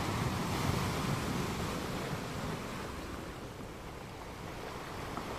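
Steady rushing wash of surf on a beach, easing slightly in the second half.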